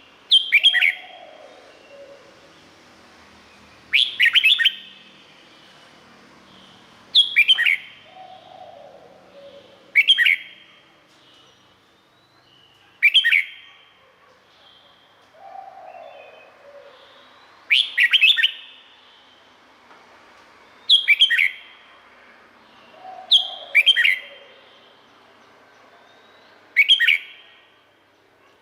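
Red-whiskered bulbul singing: short, loud whistled phrases, each with a few quick notes, repeated about every three seconds.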